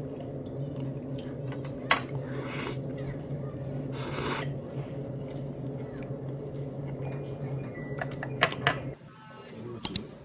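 Tableware clinking during a meal: a few sharp clicks of cutlery against dishes over a steady low hum, which cuts off about nine seconds in.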